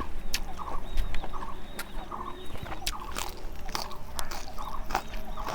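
Close-up eating sounds, sharp wet clicks of chewing and lip-smacking, with a chicken clucking repeatedly in the background in short pulsed bursts.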